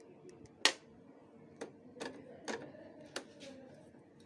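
Five sharp clicks and knocks, the first the loudest, then four lighter ones about half a second to a second apart: the plastic covers and parts of a Xerox WorkCentre 5855 copier's document feeder being handled and opened.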